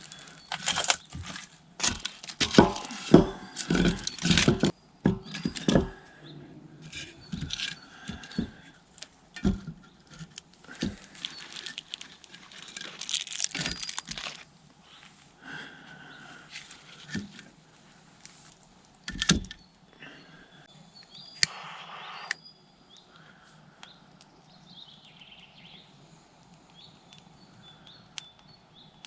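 Rustling, crinkling and sharp knocks of things being handled, dense for about fifteen seconds and then sparse. Later there are a few short, high bird chirps.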